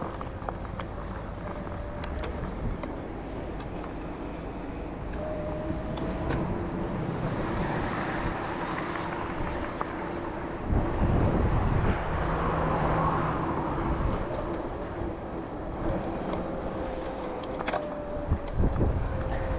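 Bike riding noise on a forest trail: tyres rolling and the frame rattling with scattered clicks, under a steady whine. The noise grows rougher and louder for a couple of seconds about halfway through.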